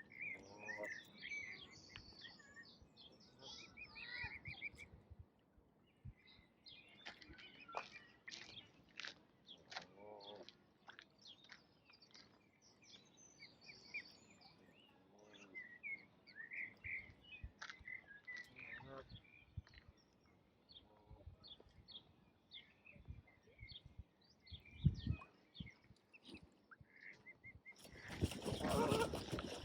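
Ducks quacking on and off while small birds chirp in short, high calls. Near the end a louder rushing noise lasts about two seconds.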